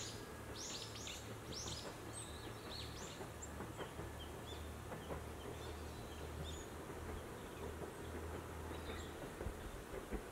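Outdoor ambience of wooded hills: a songbird gives a series of quick, high, downward-sweeping chirps in the first few seconds, then fainter scattered calls, over a steady low rumble that fades out near the end.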